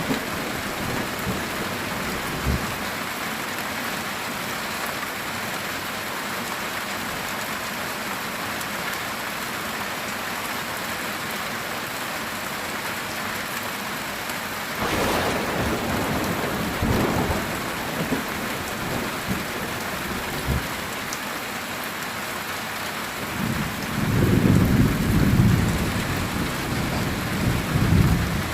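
Heavy rain drumming steadily on a metal tin roof, with a sharp thunder crack about halfway through and a louder, longer roll of thunder near the end.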